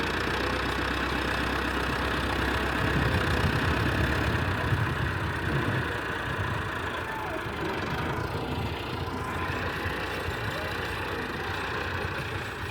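Tractor engine running steadily, a little louder a few seconds in.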